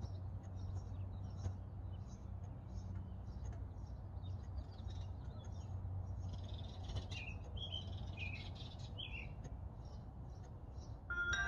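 Small birds chirping, many short high chirps with a few lower sweeping calls in the middle, over a steady low hum. Music with chiming mallet-percussion notes begins near the end.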